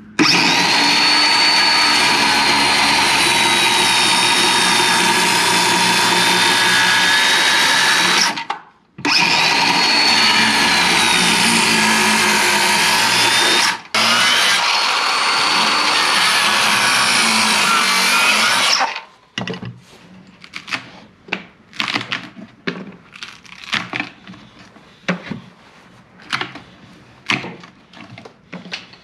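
Circular saw running in three long stretches, its whine dipping and recovering as it cuts a row of shallow kerfs into a board for a notch. From about two-thirds of the way in, quick scattered knocks and snaps as the thin slices of wood left between the kerfs are broken out.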